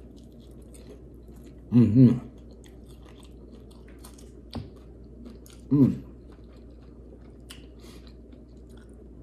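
A person chewing a bite of crispy fried egg roll with hot mustard, with faint crunching clicks. Two short wordless vocal sounds break in, about two seconds in and again near six seconds, as a reaction to the mustard's heat.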